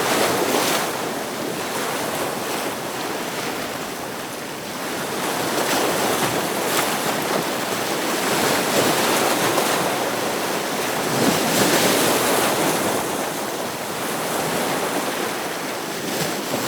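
Ocean waves breaking on rocks: continuous surf wash that swells and ebbs over several seconds.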